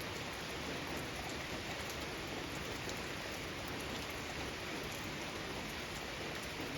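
Steady rain falling, with a dense patter of individual drops on surfaces.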